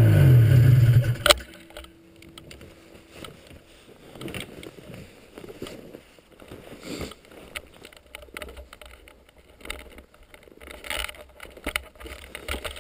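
Ski-Doo Blizzard 7500 snowmobile's two-stroke engine dropping in revs and cutting off about a second in, ending with a sharp click. Faint, uneven outdoor background noise follows.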